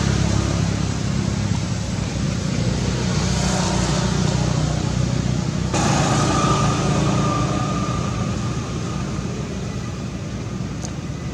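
Road traffic noise: a steady rumble of passing vehicles that changes abruptly about halfway through.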